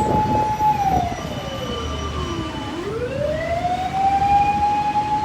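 Fire truck siren wailing: it holds a high note, falls slowly to a low pitch about two and a half seconds in, then climbs back up and holds the high note again.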